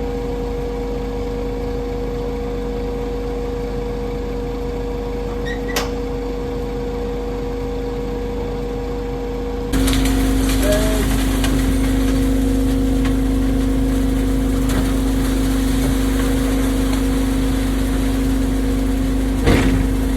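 Engine running steadily with a constant hum, becoming louder and closer about ten seconds in; a couple of brief sharp knocks stand out, one near the end.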